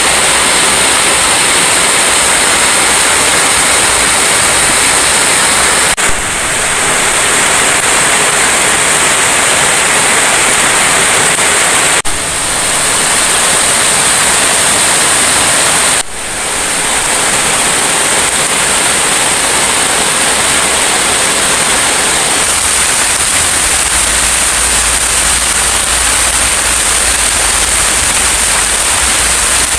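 Heavy rain pouring down, a loud steady hiss, with brief drops in level about six, twelve and sixteen seconds in.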